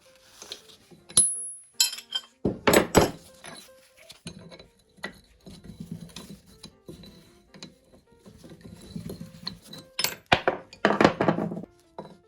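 Metal parts clinking and clattering against each other and a hard surface in irregular strikes, with the loudest clatters a little over two seconds in and again near the end.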